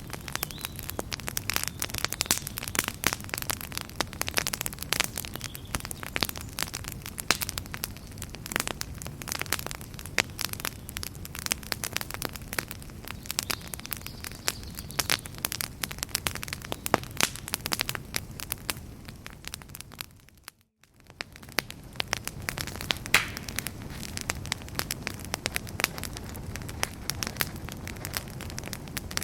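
Wood fire crackling in a fireplace: a dense run of sharp pops and snaps over a soft low rumble. About twenty seconds in it fades out for a moment, then comes back.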